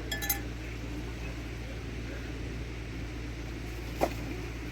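A few light clinks with a short ring, like a hard object knocked or set down, just after the start and once more about four seconds in, over a steady low hum.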